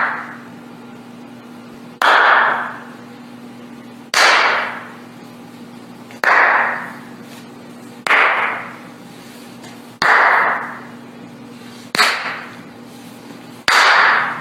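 Sharp noisy cracks, each with a short fading tail, repeating evenly about every two seconds, seven times, over a steady low hum.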